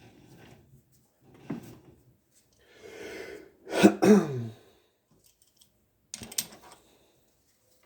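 A person coughing and clearing their throat, with a couple of brief knocks of handling before and after.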